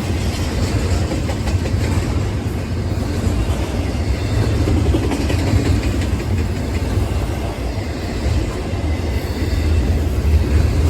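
Train rumbling past, a steady loud low rumble with no distinct wheel clicks.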